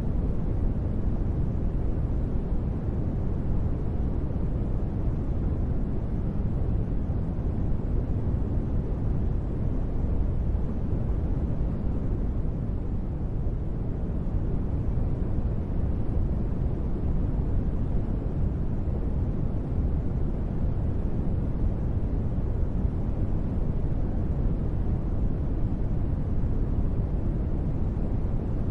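Steady synthetic space-ambience noise: a deep, even hiss-like rumble, heaviest in the bass with little treble, that does not change.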